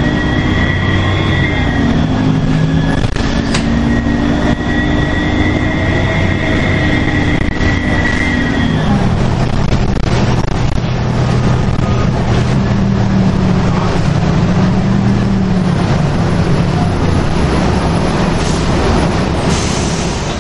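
A 2002 NABI 40LFW transit bus's Detroit Diesel Series 50 engine running steadily under way, with a high turbo whistle over the engine drone. About eight seconds in, the engine note drops and the whistle fades, leaving the steady engine and road drone.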